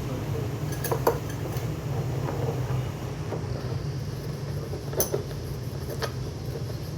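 Metal tools or parts clinking together in a few sharp separate knocks, the loudest about a second in and about five seconds in. A steady low hum runs underneath.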